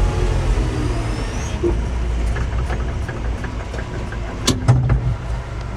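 Construction site machine's engine running steadily, with a faint rising whine in the first second and a half, then a run of light clicks and a sharp knock about four and a half seconds in.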